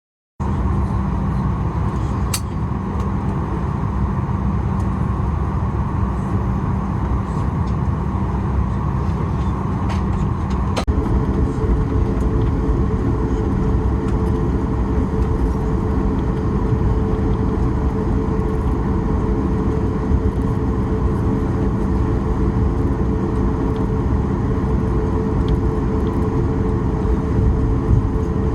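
Steady aircraft noise from a Boeing 737-9 MAX: a low rumble with a constant hum. A sharp click comes about a third of the way in, and a new steady tone joins the hum after it.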